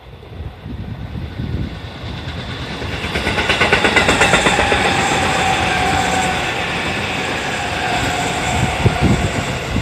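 E653 series electric express train passing close by, growing louder to a peak about three to four seconds in. Its wheels clatter in a rhythm over the rail joints, with a steady whine that sinks slightly in pitch as it goes by.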